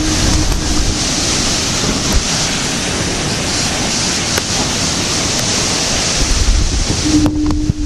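Hurricane-force wind and driving rain hissing steadily, with wind buffeting the microphone. A steady low horn-like tone sounds briefly at the start and again for about a second near the end.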